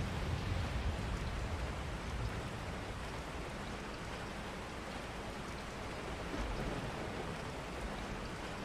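Steady rain falling, with a low rumble in the first second or so.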